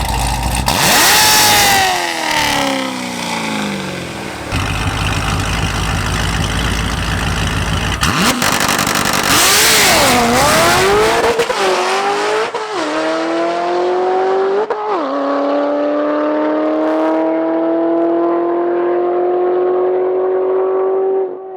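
Drag race car accelerating hard down the strip, its engine note climbing and dropping sharply twice as it shifts gears, then pulling steadily higher.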